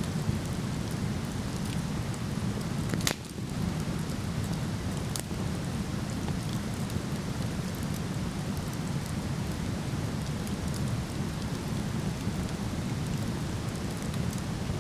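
Steady rushing of a waterfall with a wood fire crackling over it: faint crackles throughout, a sharp pop about three seconds in and a smaller one about two seconds later.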